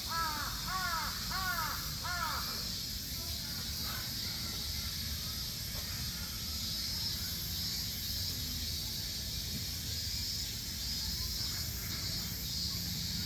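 A bird calling four times in quick succession, each call rising and falling in pitch, then steady background noise. Another run of calls begins at the very end.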